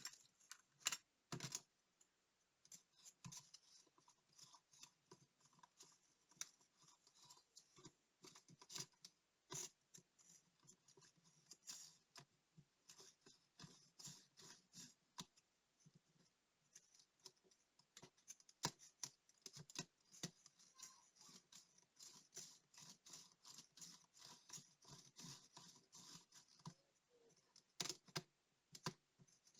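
Fine hand work on a small digital wristwatch: small tools clicking and scraping against the watch's parts in quick, irregular strokes, with a few sharper clicks.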